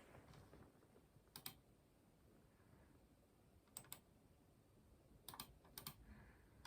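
Soft clicking from computer controls being used to operate the new PC: four quick double clicks spread across a few seconds.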